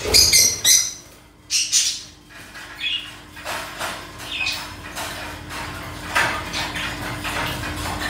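Small caged birds giving short, sharp squawks and chirps, the loudest near the start and a second and a half in, over rustling and clicking from the wire cage as hands work inside it.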